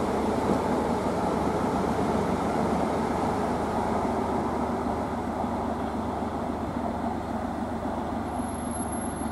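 Electric multiple-unit trains running on the line: a steady rumble of wheels on rail that eases slightly toward the end.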